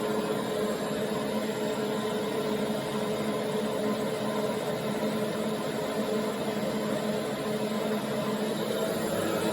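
1942 Electrolux Z36 vacuum cleaner running at its only power setting: a steady whir with a constant low hum.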